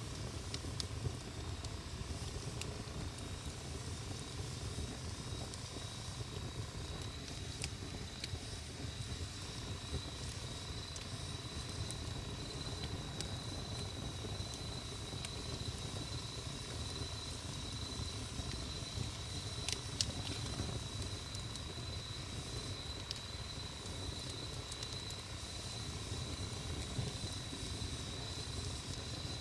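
Wood campfire burning with a low steady rumble and a few sharp crackles and pops, the loudest about two-thirds of the way through. A steady high-pitched insect trill starts a few seconds in and runs on behind the fire.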